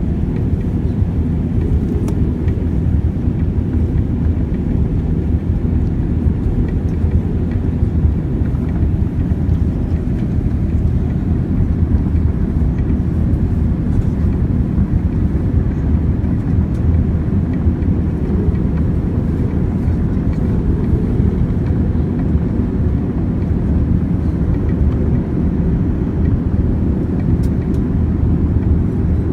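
Steady low cabin noise inside a Boeing 787 airliner: its jet engines and the airflow around the fuselage, with no change in level.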